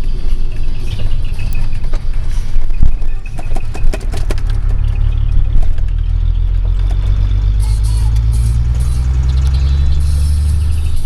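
Hino Space Ranger truck's diesel engine and twin-muffler exhaust, heard from inside the cab: a deep, steady low drone that strengthens and holds from about four seconds in. A cluster of sharp clicks and rattles comes before it.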